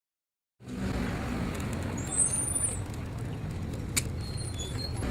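Vehicle noise: a steady low rumble that starts abruptly about half a second in, with a few brief high squeaks and a single sharp click.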